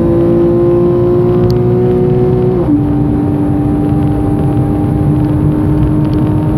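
Porsche 991.1 Carrera's naturally aspirated 3.4-litre flat-six pulling steadily under way, heard from inside the cabin over tyre and road noise on a wet track. The engine note climbs slowly, drops sharply a little under three seconds in as the gearbox shifts up, then holds steady.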